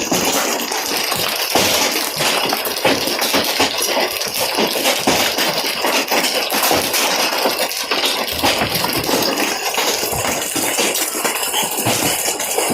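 Heavy rain and large hail, up to baseball size, pelting down: a steady hiss of rain with frequent sharp hailstone impacts clattering throughout.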